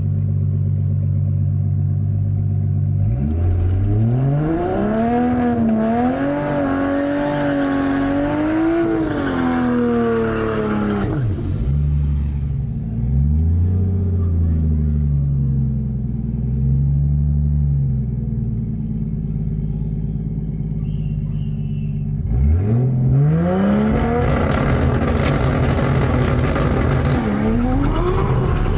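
Drag racing car engines revving: a steady engine note rises about three seconds in and is held high, falls away after about eleven seconds to a lower wavering note, then climbs again about twenty-two seconds in.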